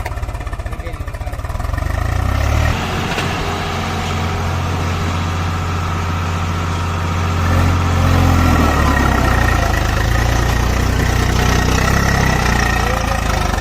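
Tractor diesel engine running, its speed picking up about three seconds in and easing back again a little past the middle.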